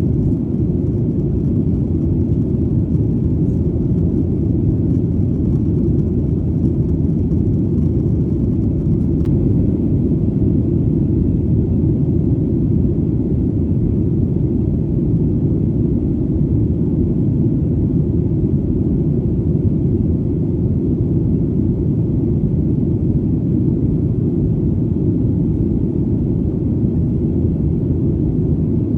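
Steady, deep rumbling drone of an airplane in flight, even and unchanging throughout.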